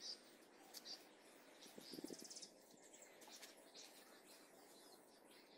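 Near silence: faint outdoor ambience with a few brief, high bird chirps.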